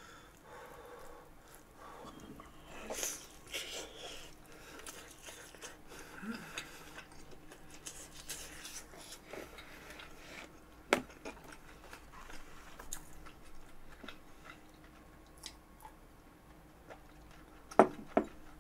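Close-up chewing and soft crunching of sugar-coated French toast. Sharp clicks stand out, one about halfway through and a quick pair near the end.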